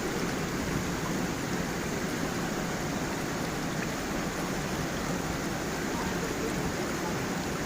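Water flowing over a small waterfall in a stream, a steady, even rush.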